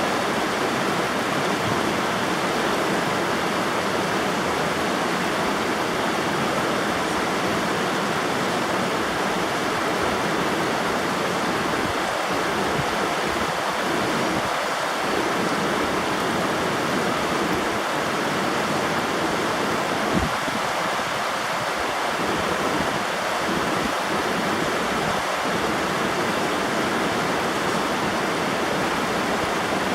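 River water rushing and splashing steadily in a loud, even roar.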